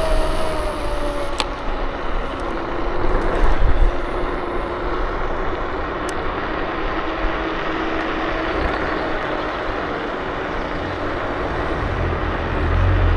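Electric scooter riding along: a hub-motor whine that drops in pitch in the first second as the scooter slows, then holds steadier, over a constant rush of wind and tyre noise. A low rumble swells near the end.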